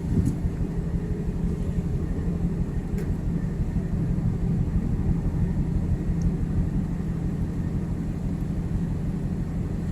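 Steady low drone of a ship's machinery, with a constant hum and a couple of faint ticks.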